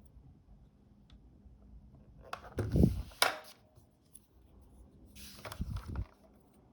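Two short bursts of handling noise, rubbing and clicking, about three seconds apart, from hands and small tools working on a camera's parts.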